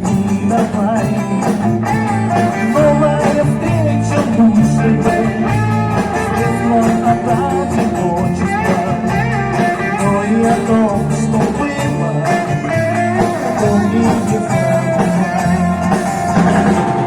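Live amplified band music: electric guitar carrying the melody over a bass line that steps from note to note.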